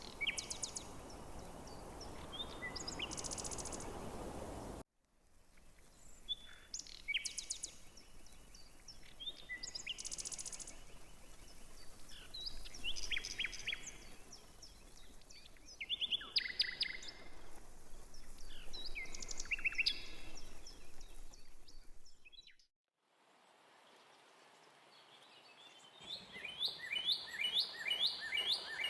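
Songbirds singing: repeated short chirps and trills over a steady low background noise. The sound cuts off abruptly twice, and near the end one bird gives a quick run of falling notes, about four a second.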